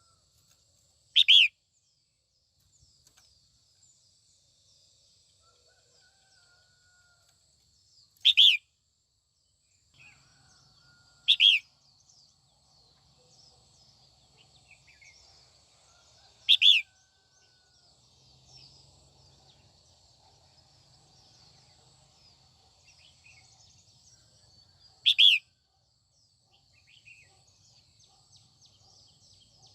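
Female red-whiskered bulbul calling: five short, loud notes spaced several seconds apart, over faint, continuous high chirping in the background.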